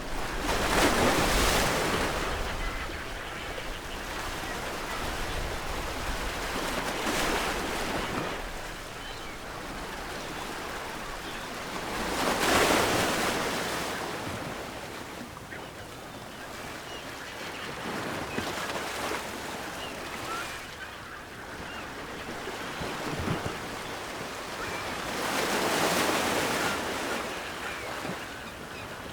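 Ocean waves breaking on the shore: a steady wash of surf that swells five times, a wave crashing about every five to seven seconds.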